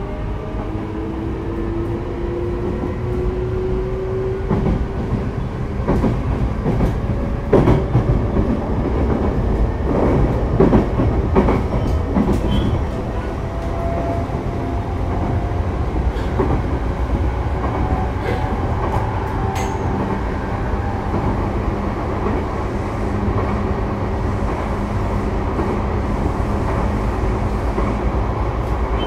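Sotetsu 12000 series electric train running, heard from inside a passenger car. A steady rumble of wheels on rail carries a thin motor whine that slowly rises in pitch, with a cluster of clicks over the rail joints in the middle.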